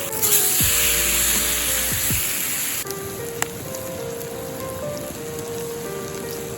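Chicken steak sizzling in a pan over a campfire, a steady crackling hiss that drops off sharply about three seconds in, under background music.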